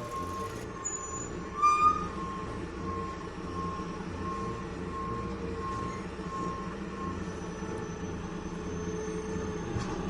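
Miniature toy construction vehicle reversing: its beeper sounds about twice a second over a steady electric motor hum, stopping about seven seconds in. A short, louder chirp comes about two seconds in.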